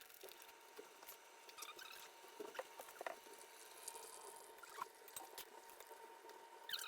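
Hamilton Beach FlexBrew 5-in-1 coffee maker brewing a single cup from ground coffee: a faint steady hum with irregular small gurgles and drips.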